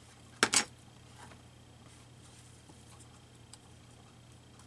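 Scissors snipping paper: two quick sharp snips close together, followed by faint paper rustling.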